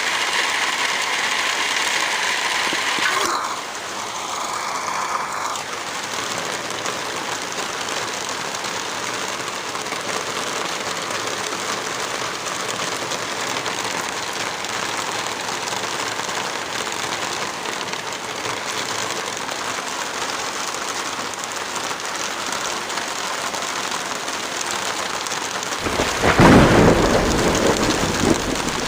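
Heavy rain falling as a steady, dense hiss. Near the end a low rumble swells up for about two seconds and fades, the loudest sound of the stretch.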